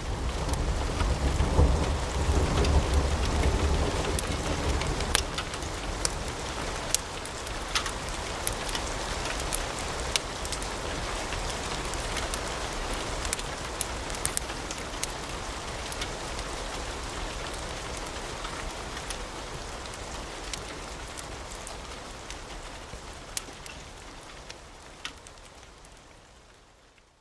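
Wood fire in a fireplace crackling, a steady hiss broken by sharp pops, with a low rumble in the first few seconds. It gradually fades out toward the end.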